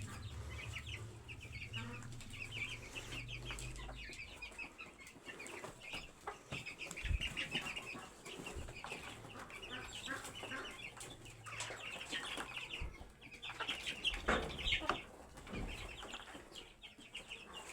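Domestic chickens clucking and cheeping as they feed, many short calls overlapping. A low rumble runs through the first few seconds, and there are a couple of dull knocks.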